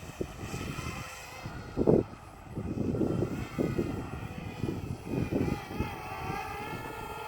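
DJI Spark quadcopter's propellers whining in flight, the pitch wavering up and down as it manoeuvres in sport mode. Irregular low rumbling bursts sound over it, the loudest about two seconds in.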